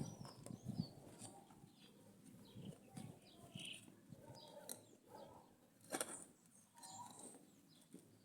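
Faint bird chirps and calls, with a few soft clicks from handling, the clearest about six seconds in.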